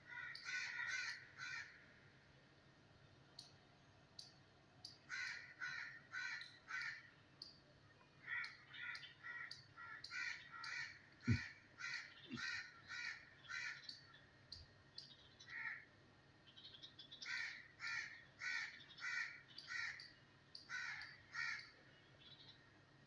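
Crows cawing in runs of short repeated calls, about two or three a second, with pauses between the runs. Two brief low thumps come about halfway through.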